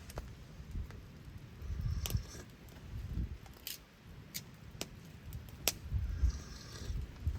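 A few scattered sharp clicks over an uneven low rumble.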